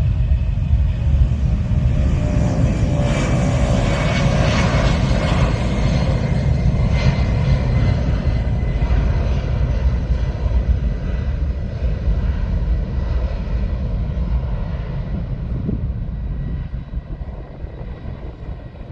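Military aircraft engines running loud: a deep rumble with a steady high whine, with the pitch falling in the first few seconds. The sound fades away over the last few seconds.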